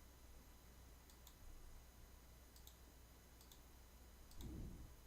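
Near silence with a few faint, sharp computer mouse clicks spaced about a second apart.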